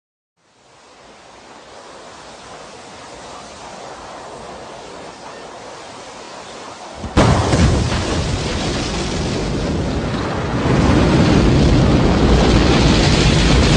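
Rocket launch: engine noise rises out of silence as a soft hiss and builds gradually. About halfway through it jumps suddenly to a loud, low, rushing noise, and it grows louder again a few seconds later.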